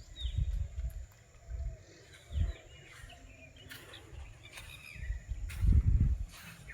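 Forest birds calling: scattered short chirps and quick falling whistles. Low rumbling bumps on the microphone come and go, the loudest about five and a half to six seconds in.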